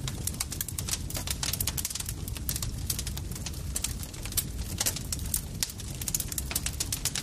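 Campfire crackling: dense, irregular sharp pops and snaps of burning wood over a steady low rumble of the flames.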